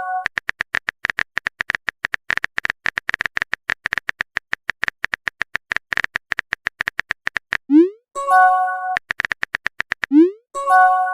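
Phone-keyboard typing sound effect: rapid short clicks, several a second, for about seven seconds. Then a rising pop and a short chiming message-sent tone, with the pop and chime coming again near the end.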